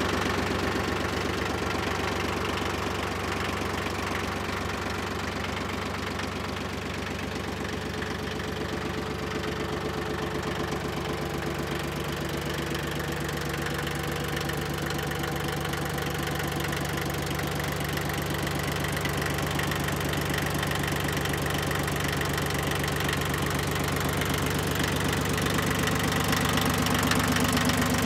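Yanmar 1610D compact tractor's small diesel engine running steadily with a typical diesel knock, the level rising a little near the end.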